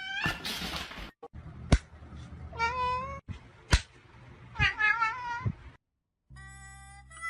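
A domestic cat meowing several times in short, wavering calls, with a couple of sharp knocks in between. Near the end the sound cuts out and music begins.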